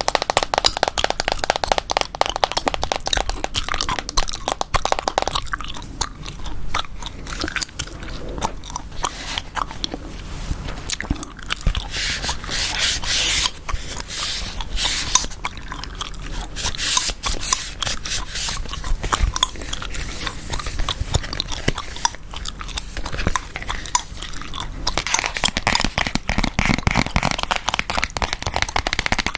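Gum chewing close to the microphone: a dense run of small clicks and crunches.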